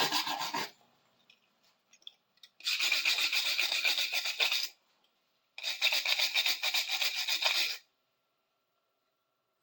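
A rusty metal hinge being scrubbed by hand to clean off rust and dirt after a vinegar soak: rapid back-and-forth scraping strokes in three bouts, the first stopping just under a second in, then two more of about two seconds each with short pauses between.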